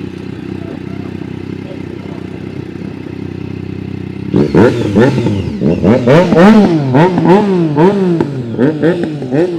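A vehicle engine idling steadily, then, a little after four seconds in, revved hard again and again, its pitch rising and falling about once a second.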